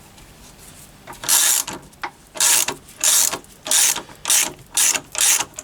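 Ratchet spanner turning the centre bolt of a crank pinion gear puller, clicking in about seven quick back-and-forth strokes that start about a second in.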